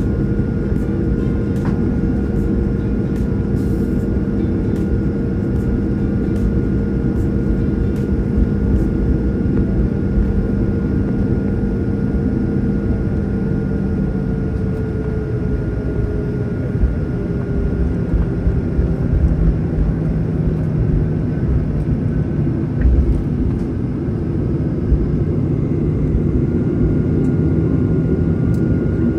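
Airliner cabin noise heard from inside: steady jet-engine drone over a low, bumpy rumble, as during the takeoff run and climb. The engine tone drops slightly in pitch about halfway through.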